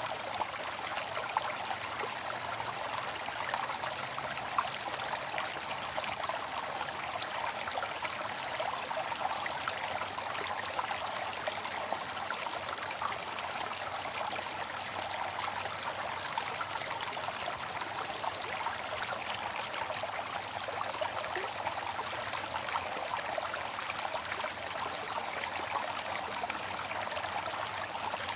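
Water fountain running: a steady splashing trickle of water falling into a basin, with fine droplet patter and no pauses.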